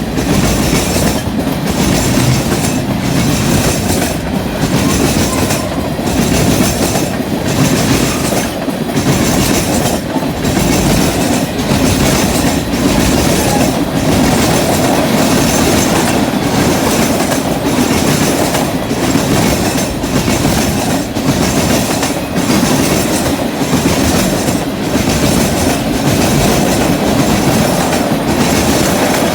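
Freight train cars rolling past at steady speed, their steel wheels clattering over the track in a regular rhythm about every second and a half.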